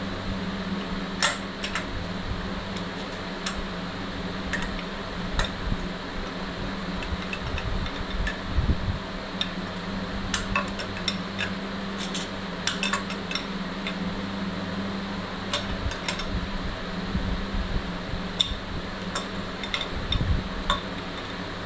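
Steady hum of a running shop fan with scattered light metallic clicks and clinks of hand tools against engine parts, as the oil pickup extension pipe is worked loose inside the engine's crankcase.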